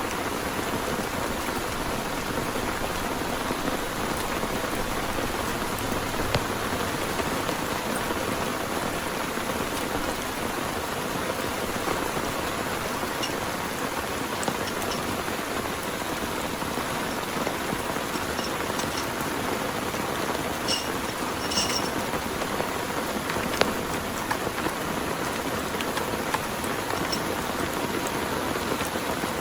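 Steady rain falling, an even, dense hiss that holds constant, with a few faint short high-pitched ticks in the second half.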